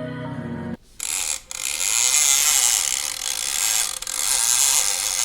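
Fishing reel being cranked: a continuous fast mechanical whirring and clicking, briefly pausing twice. It starts as background music cuts off about a second in.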